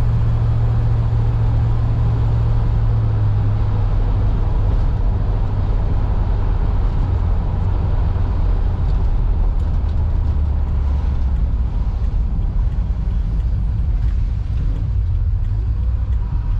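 1956 Ford Thunderbird's V8 engine running as the car drives, heard from inside the cabin over steady road noise. The low engine note drops a little about three seconds in.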